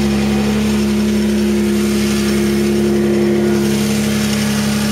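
Mazda MX-3's 1.8-litre K8 V6 idling steadily, with a clacking, rattling noise from the front of the engine that gets louder as it warms; a newly replaced pulley has not cured it.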